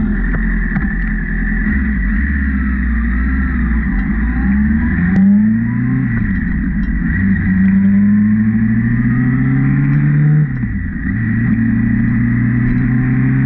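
Honda CB650R's inline-four engine pulling hard, its pitch climbing through the revs and dropping twice at upshifts, about six seconds in and again after about ten and a half seconds, before it climbs again.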